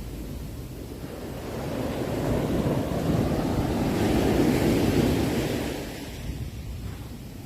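Sea waves washing onto a shore: one wave swells to a peak about halfway through and draws back, over a steady surf rush.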